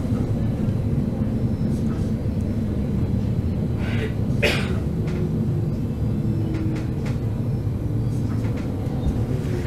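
Passenger train running along the track: a steady low rumble with faint scattered clicks, and one brief sharper sound about four and a half seconds in.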